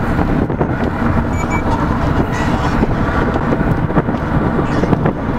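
Steady road and engine noise inside a moving car, with a short high double beep about a second and a half in.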